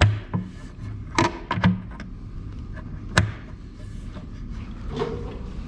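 Cabinet door being clipped back onto its hinges: a string of wooden knocks and clicks, with one sharp snap about three seconds in, over a steady low hum.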